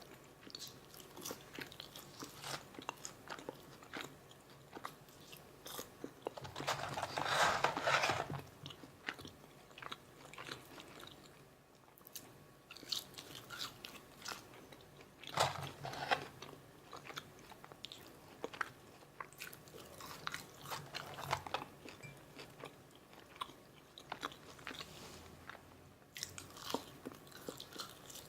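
Close-miked chewing of McDonald's Filet-O-Fish meal food: steady wet mouth clicks, with louder crunchy bites about 7, 15, 21 and 25 seconds in.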